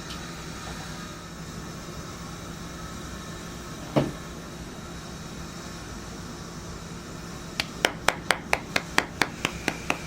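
A single sharp knock about four seconds in, then a quick, even run of about ten sharp taps near the end, made while handling an iPhone box, over a steady low hum.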